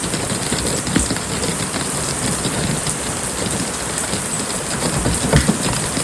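Heavy rain pelting a stopped car, a dense steady patter of drops with scattered sharper hits, the loudest about a second in and around five seconds in.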